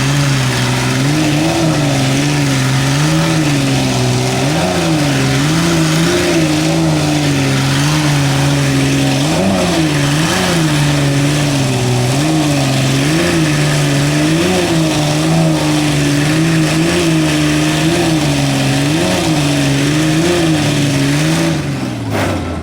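Tug-of-war pickup truck engines held at high revs under load during a pull. Their pitch wavers up and down over and over, then drops away near the end as the throttle is let off.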